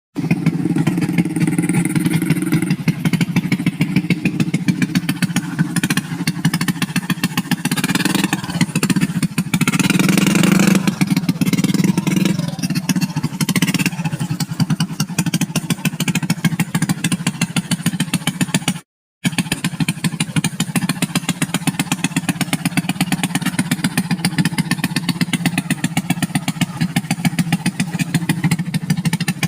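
Small motorcycle engine running steadily at low speed, a rapid even firing pulse throughout. It drops out for a moment about two-thirds of the way through.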